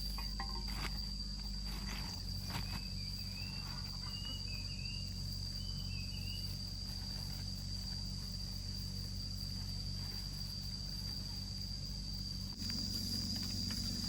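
Insects chirring in one steady high note, with a few short bird chirps in the first half and a low steady hum beneath.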